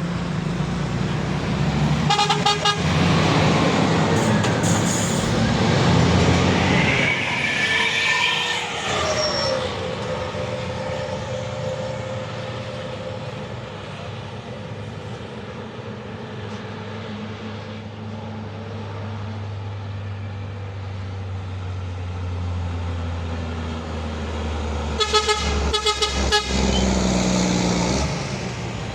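Truck horns tooting in several short blasts about two seconds in and again near the end. Between them, truck engines pass on the road, one fading with a falling pitch, and a steady low engine hum carries on.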